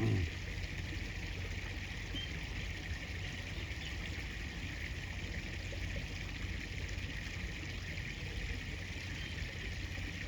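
River water flowing and trickling steadily, with a brief low thump right at the start.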